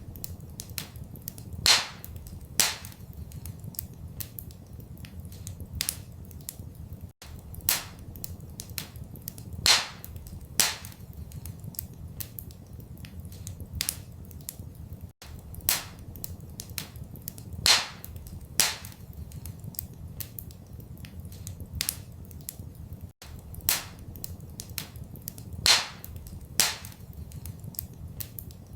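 Wood fire crackling in a fireplace: many sharp pops and snaps, a few much louder than the rest, over a low steady rumble. The same pattern of pops comes round again about every eight seconds, as in a looped recording.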